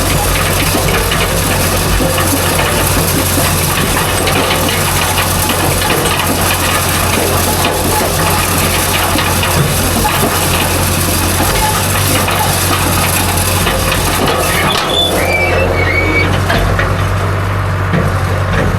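John Deere 2030 tractor engine running steadily while pulling a hay wheel rake, with a constant low hum and mechanical rattling. A few short high squeaks come in about fifteen seconds in.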